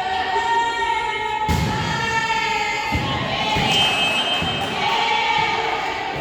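Spectators cheering and chanting with held, sung-out voices, with two sharp thuds, about one and a half and three seconds in.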